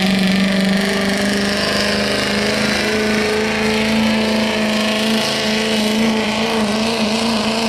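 6-liter street diesel pickup truck pulling the sled, its engine held at high revs under heavy load, with a steady note that creeps slightly higher through the run.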